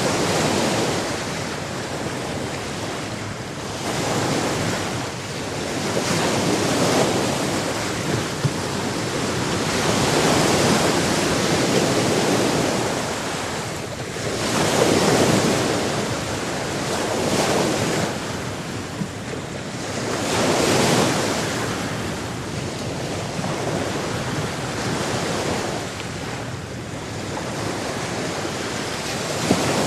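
Sea surf: waves breaking and washing ashore, swelling and fading every few seconds over a steady rush of water.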